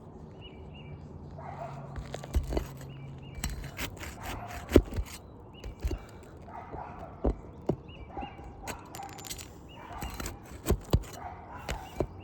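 Irregular sharp knocks and scrapes of a hand tool working under three-tab asphalt shingles to pry out roofing nails. The knocks come every half second to two seconds, with a few louder strikes.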